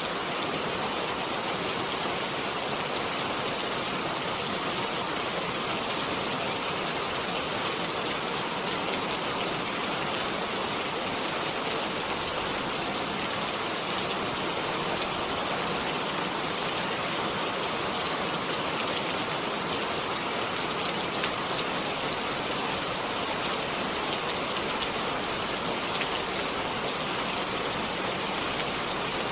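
Steady rainfall, with many fine individual drops pattering on a surface.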